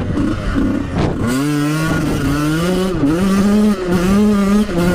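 Two-stroke dirt bike engine revving hard under acceleration, its pitch climbing and then dropping back several times as the rider shifts up and rolls the throttle on and off.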